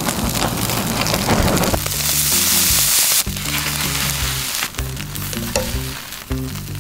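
Carrot cake frying in a nonstick pan, sizzling throughout, with a much louder hiss from about two to three seconds in. A few spatula scrapes and clicks follow, over background music with a low bass line.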